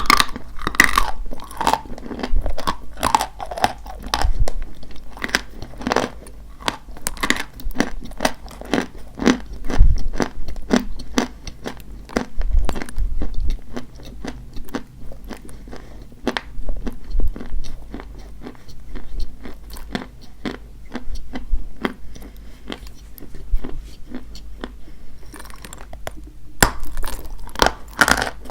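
Dry white chalk being bitten and chewed close to the microphone: a dense run of sharp, brittle crunches coming in clusters, with a short lull a couple of seconds before the end.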